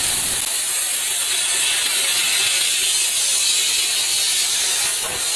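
Steady, loud hiss of a high-pressure spray nozzle working over a car's engine bay during an engine wash.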